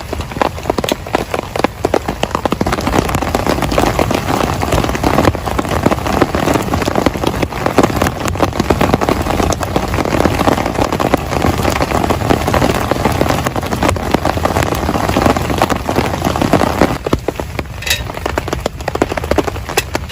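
Heavy rain falling, a dense patter of drops striking a surface close to the microphone, easing and thinning near the end.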